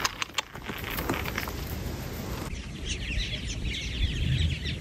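A few sharp clicks, then from about halfway in, many small birds chirping busily together in a dense, overlapping chatter.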